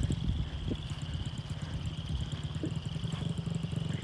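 Small dirt bike's engine running steadily at idle.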